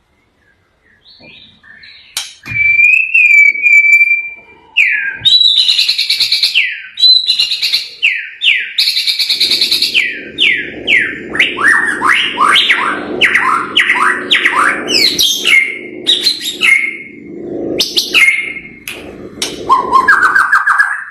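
White-rumped shama (murai batu) singing vigorously: clear whistles, then rapid runs of quick down-slurred notes, several a second, in the fast-paced 'trotol' style. A low steady hum sits underneath for much of the song.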